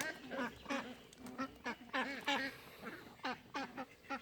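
Ducks quacking, short calls coming several times a second.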